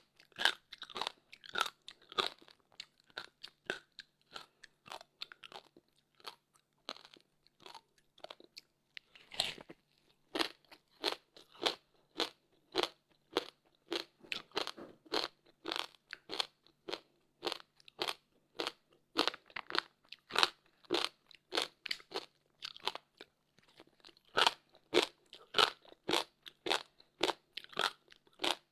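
Close-up crunching and chewing of frozen passion fruit ice, a quick run of sharp crunches at about two to three a second, thinner and quieter for a few seconds before a hard bite about nine seconds in.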